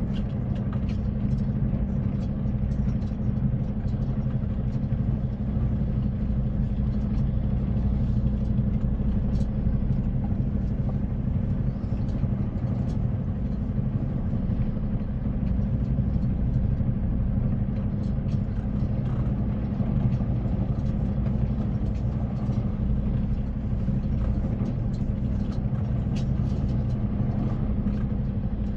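Tractor-trailer truck running down the road: a steady low drone of engine and road noise that does not change.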